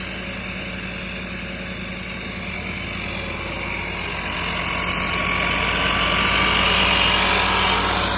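5 hp diesel engine of a grass-cutting machine running steadily with a regular low pulse. A rushing, whirring noise builds from about halfway through and is loudest near the end.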